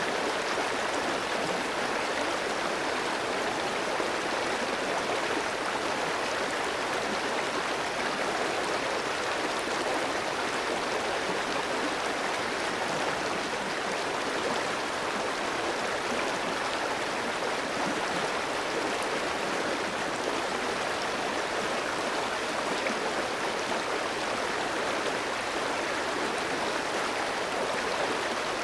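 A clear stream flowing over rocks, a steady rushing and babbling of water.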